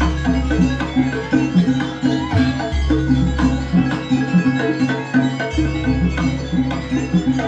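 Traditional East Javanese percussion ensemble music: rapid, evenly repeating struck metal tones over a deep low tone that drops out about a third of the way in and returns later.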